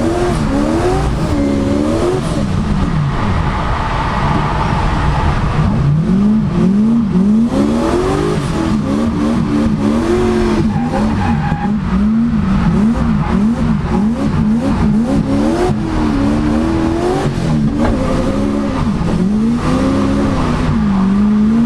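Turbocharged Toyota 1UZ-FE V8 in a drift car, heard from inside the cabin, revving up and falling back over and over as the throttle is worked through a drift.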